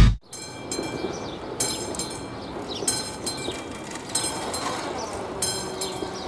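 A train rolling slowly through the station with a steady low rumble. High-pitched metallic squeals come back about every second and a bit.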